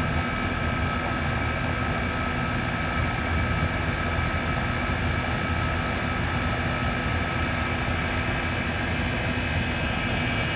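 Outdoor unit of an old R22 Trane XE1000 heat pump running steadily in cooling, its condenser fan and compressor making a constant hum with a few steady tones, while refrigerant is being charged into it.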